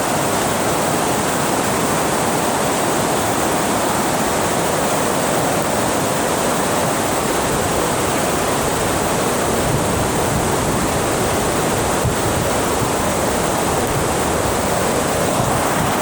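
Water rushing over a dam, a steady, unbroken roar of falling water.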